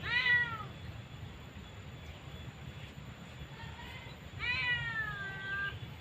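Two drawn-out animal calls, each falling in pitch: a short one at the start and a longer one about four and a half seconds in.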